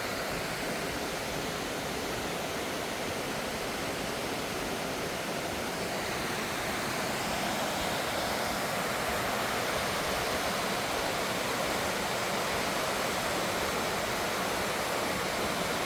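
Waterfall rushing steadily: an even, continuous wash of falling water, growing slightly louder around the middle.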